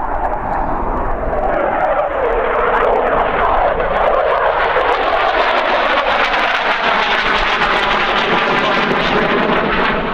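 Loud, steady jet noise from a Eurofighter Typhoon's twin EJ200 turbofan engines in flight, with shifting, sweeping tones as the aircraft moves. It turns brighter and hissier from about four seconds in.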